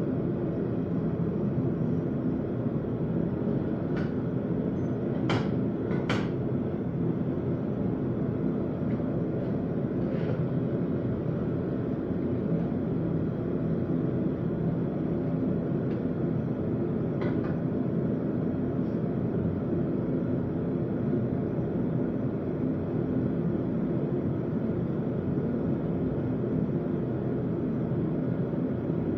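Steady roar of a running forge, with a few faint metallic clinks.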